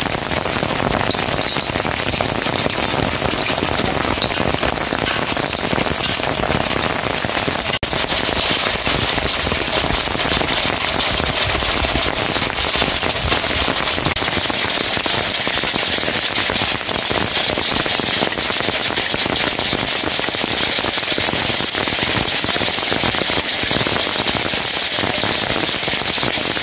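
Steady rain falling, a dense crackle of countless drops, with a momentary break about eight seconds in.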